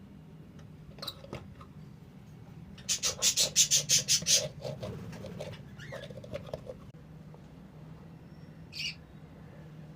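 Budgerigars chirping: a rapid run of about ten sharp, high chirps about three seconds in, a few scattered chirps after it, and a single chirp near the end.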